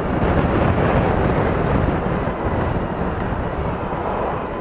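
Wind rush and road noise on the microphone of a moving Honda Pan European ST1100 motorcycle, easing slightly near the end.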